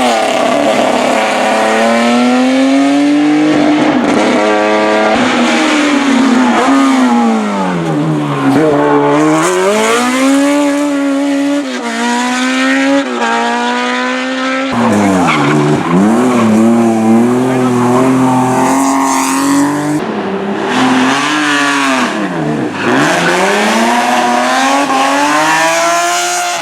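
Hillclimb racing car's engine run hard up the course. The pitch climbs repeatedly as it revs out and drops sharply at each gear change and at lifts for corners.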